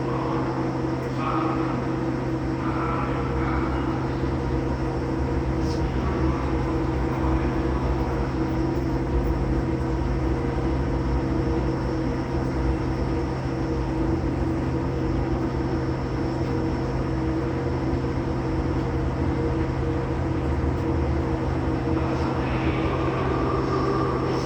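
JR East E231-800 series commuter train standing at a station with its doors open, its on-board equipment giving a steady electrical hum with no motor or wheel noise.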